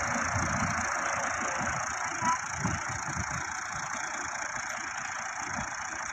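Tractor engine running, under a steady hiss.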